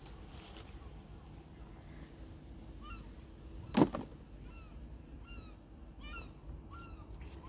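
Distant birds calling again and again in short, rising-and-falling honk-like notes over a quiet outdoor background, with a single sharp knock about four seconds in.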